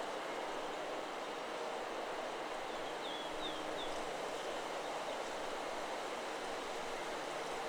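Steady rustle of wind in forest trees, with a bird giving a few brief high chirps about three seconds in; the wind chime is all but silent.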